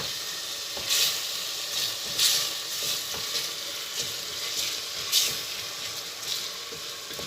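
Béchamel sauce of flour and milk being stirred in a pot on the stove as it starts to bubble: a steady sizzling hiss with irregular swishing stir strokes about once a second.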